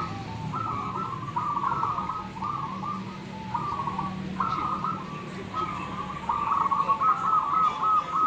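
Several zebra doves (perkutut) cooing at once, their short repeated coo phrases overlapping one after another, as at a dove-singing contest, over a low steady background hum.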